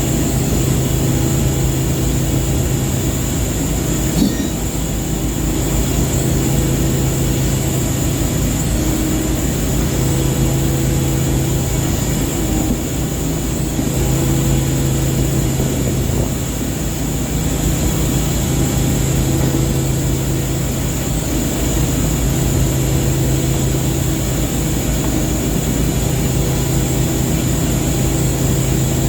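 A ship's engine running steadily: a loud low drone with a thin, constant high whine over it.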